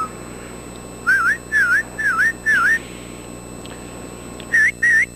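A person whistling to call a dog: four quick swooping whistles in a row, then after a pause two short rising whistles near the end.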